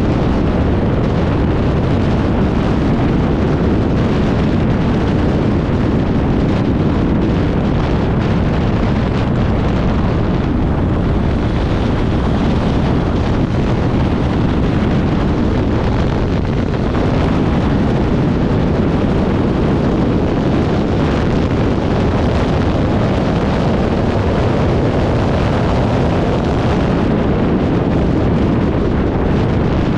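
Off-road motorcycle riding at speed over desert ground: the engine running hard under a constant heavy buffeting of wind on the microphone.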